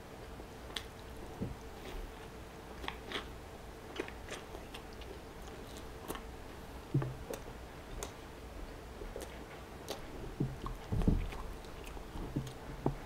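A person chewing a bite of fried chicken sandwich close to the microphone: soft, wet mouth clicks and smacks scattered throughout, with a couple of louder low bumps about seven seconds in and again near eleven seconds.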